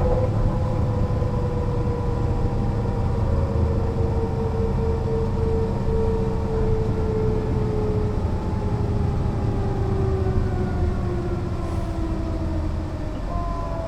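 Mercedes-Benz O 405 NÜ low-floor bus on the move: a steady deep rumble with a driveline whine that slowly falls in pitch as the bus slows. Near the end, new higher whining tones come in and fall as well.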